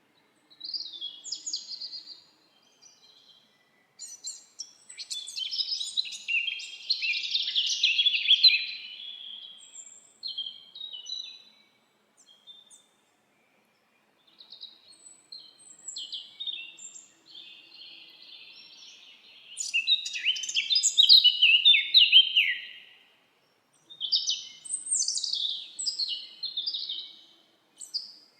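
Songbirds singing: quick high chirps and trills in bursts a few seconds long, broken by short pauses.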